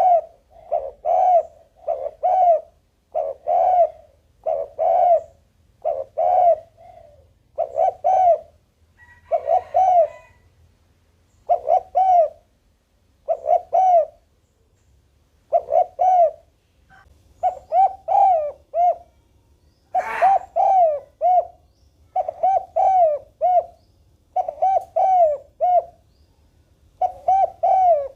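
Spotted dove cooing over and over in short phrases of two or three coos, a phrase about every second to second and a half. A brief sharp click comes about twenty seconds in.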